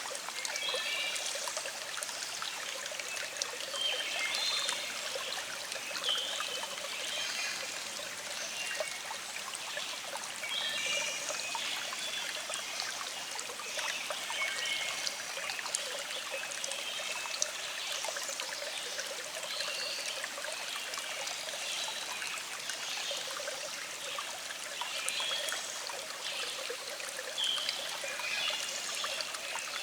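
A small stream flowing and trickling steadily, with birds singing short repeated chirps over it throughout.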